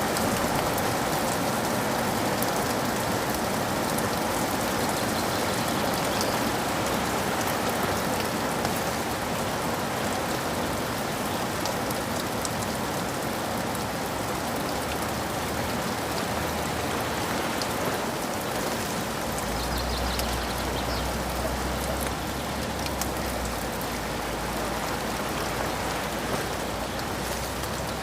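Steady rain falling, an even hiss with scattered drop ticks. About two-thirds of the way through, a low rumble comes in under the rain and holds.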